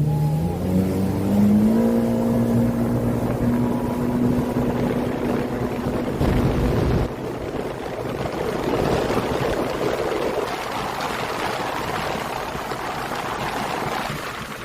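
Watercraft engine starting up and rising in pitch, then holding a steady note for several seconds before cutting off about seven seconds in. A rushing, water-like noise follows.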